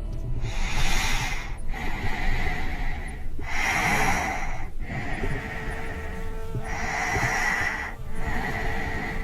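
A person breathing heavily, with about six long breaths in and out over faint sustained music tones.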